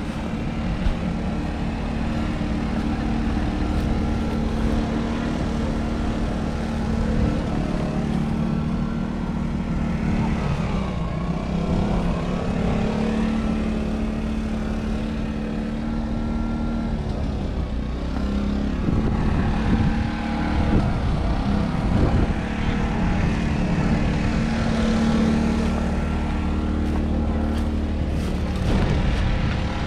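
Fendt 312 Vario tractor's 4.4-litre four-cylinder diesel engine running steadily, its note dipping briefly about ten seconds in and then rising again.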